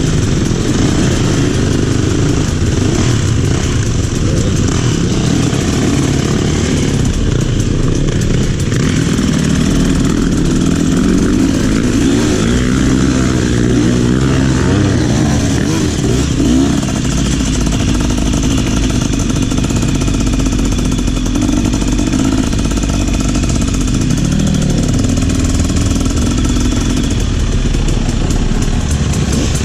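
Trail motorcycle engine running steadily under the rider, its revs rising and falling repeatedly with the throttle.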